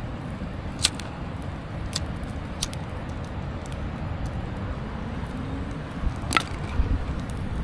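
Campfire crackling, with a few sharp pops over a steady low rumble.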